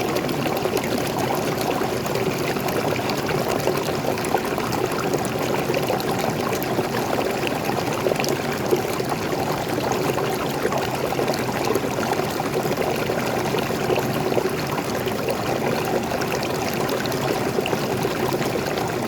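Waterfall of fresh water pouring and splashing into a forest stream, a steady unbroken rush with light splashing.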